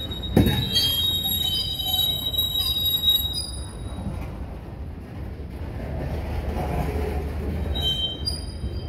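Freight train of covered hopper cars rolling past with a steady rumble of wheels on rail. High-pitched wheel squeal runs through the first three seconds or so and comes back near the end. There is a single thump under half a second in.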